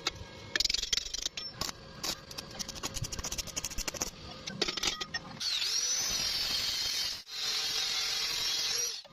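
Metalworking tool sounds: irregular crackling and clicks, then a power tool running steadily with a whine that rises and falls, starting about five and a half seconds in and stopping just before the end.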